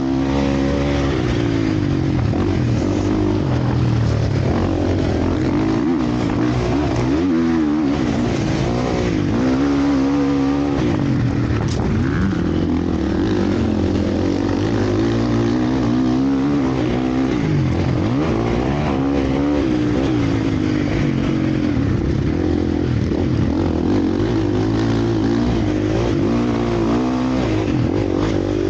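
Several motocross bikes racing, their engines overlapping and revving up and down again and again as riders accelerate, shift and back off.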